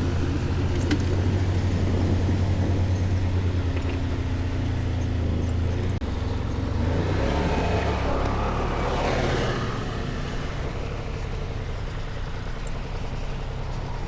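A vehicle engine running with a steady low rumble that shifts about six seconds in. A rush of noise swells and fades near the middle.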